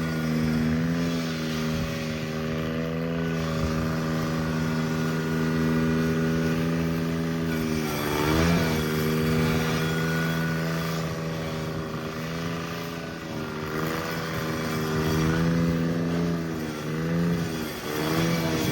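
Cub Cadet 782 garden tractor's engine running steadily, its speed dipping and wavering briefly about halfway through and again near the end.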